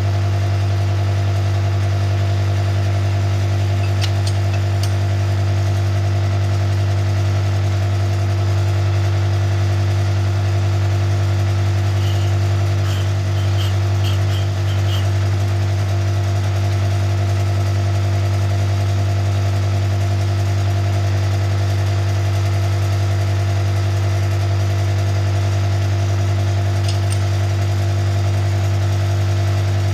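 Connecting-rod cap cutter running steadily with a constant motor hum while the rod and cap parting faces are cut. A few light clicks are heard, about four seconds in, a short run of ticks around the middle, and one more near the end.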